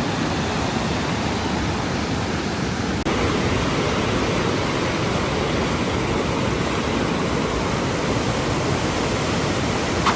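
Rushing whitewater of the Niagara River rapids: a steady, dense roar of water with no let-up. Its character shifts slightly about three seconds in.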